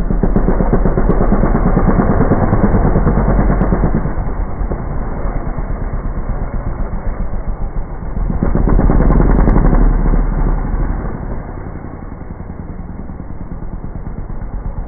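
Motocross dirt bike engine running with a fast, steady pulse, swelling louder at the start and again about halfway through before easing off.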